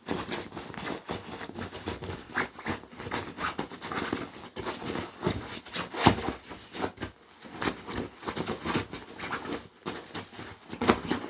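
A puppy digging and scratching at a new dog bed with its paws: quick, irregular scratching and rustling, with a louder scrape about six seconds in.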